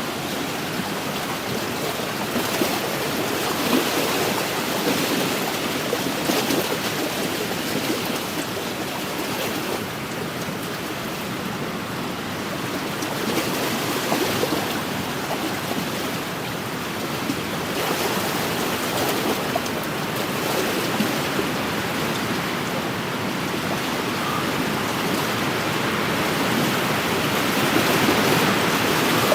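Wind-driven waves lapping and splashing against a lakeshore: a steady wash of water that swells and eases every few seconds and grows a little louder near the end.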